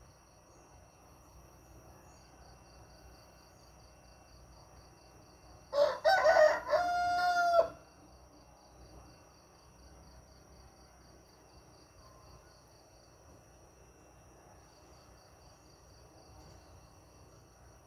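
A rooster crows once, about six seconds in: a loud crow of about two seconds ending in a long held note. Behind it, insects chirp in a steady, fast pulse.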